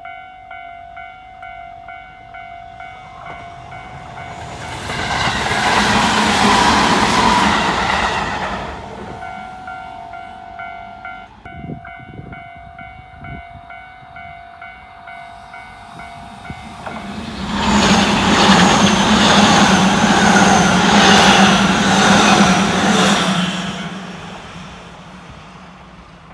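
Two Tobu Nikko Line electric trains pass close by, one after the other, each swelling to a loud rush of wheels on rail and motor hum and then fading: the first about five to nine seconds in, the second about eighteen to twenty-four seconds in. A level-crossing bell rings in a steady repeating beat through the first half, stopping about eleven seconds in.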